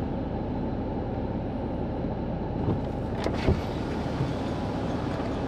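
Steady road and engine noise of a car being driven, heard from inside the cabin, with one sharp knock about three and a half seconds in.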